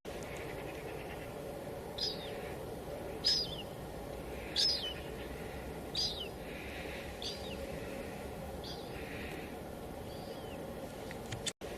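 Steady drizzle with a bird calling over it again and again: short, high chirps that slide downward, about one every second and a half, some louder and some fainter. The sound cuts out for a split second near the end.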